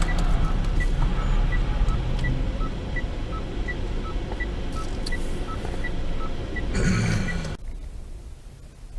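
Steady low road and engine rumble of a moving car, with a repeating electronic beep that alternates between a higher and a lower tone, about three beeps a second. About seven and a half seconds in, the sound cuts off abruptly to a much quieter background.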